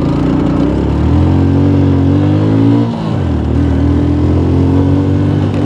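A 150 cc motorcycle engine running on nearly empty fuel, just restarted with difficulty after the bike was tilted to get the last fuel to flow. Engine speed rises, drops sharply about three seconds in, then picks up and holds steady.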